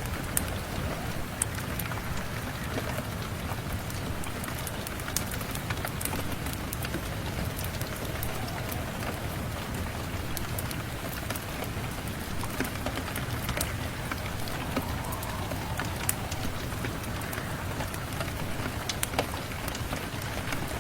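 Steady rain mixed with scattered sharp pops and crackles from a wood fire in a fireplace.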